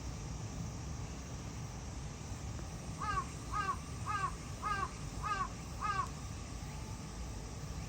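A crow cawing six times in a quick, even series, about two caws a second, over a steady low background rumble.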